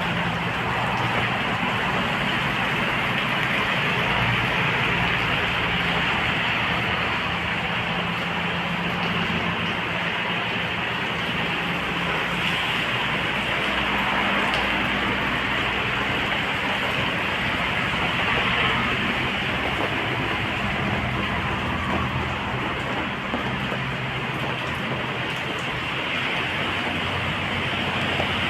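Steady rain falling, a continuous even hiss, with a faint low hum underneath.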